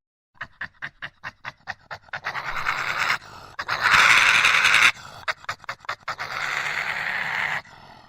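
An animal panting in quick rhythmic breaths, about five a second, that run together into a continuous rasping noise, loudest about halfway through, then cut off abruptly near the end.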